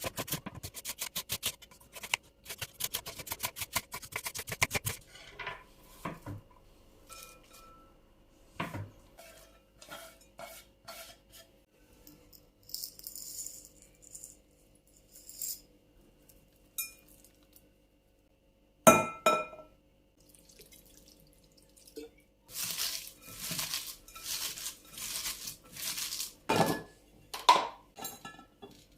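Glass containers and dishes clinking and being set down while a refrigerator is cleaned and organised, with some clinks ringing briefly. It opens with a fast run of clicks lasting a few seconds, and there is one sharper knock past the middle.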